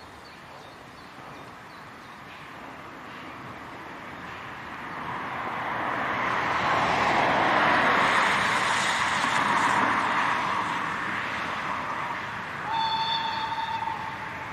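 Steam locomotive ČSD 314.303 running past with its train, its noise building to a peak and then fading. A short, steady whistle blast sounds near the end.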